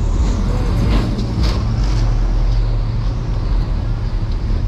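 2015 Dodge Challenger R/T's 5.7-litre Hemi V8 running steadily at low speed, a constant low engine drone.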